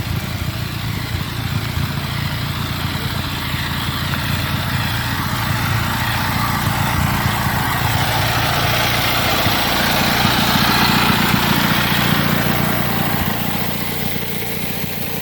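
Riding lawnmower engine running steadily, growing louder about halfway through and easing off near the end.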